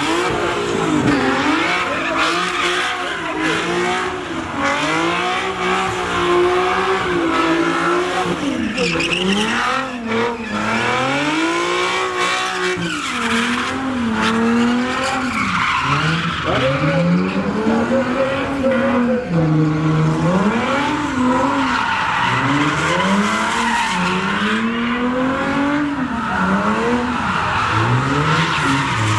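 Drift car engines revving hard, their pitch rising and falling every second or two, over steady tire squeal from sliding tires that grows louder in the second half.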